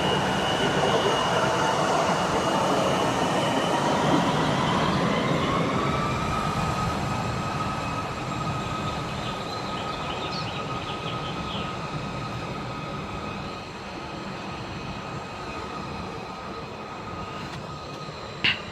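Jet airliner's turbofan engines running: a loud rush with high whining tones that rise in pitch about six seconds in, then the noise slowly fades. A sharp click near the end.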